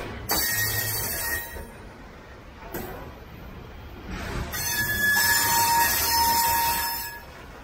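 Loaded coal hopper cars of a freight train rolling past with a steady rumble over the rails. The wheels squeal twice: briefly near the start, then longer and louder from about the middle to near the end.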